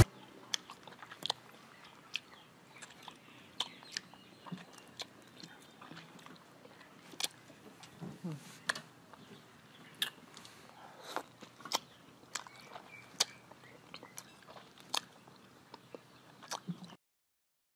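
Close-miked biting and chewing of firm green mango slices: sharp crisp crunches at irregular intervals of about half a second to a second, with soft mouth sounds between. The sound cuts to silence near the end.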